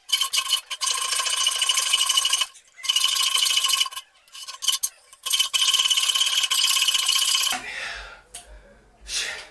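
A hand tool rasping and scraping into a homemade metal savings tin, in about four long strokes of one to two seconds each with short breaks, the metal ringing with a steady tone under each stroke.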